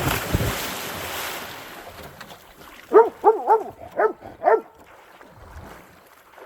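A loud splash of water that dies away over about two seconds, then a dog giving five short, high barks in quick succession about three seconds in.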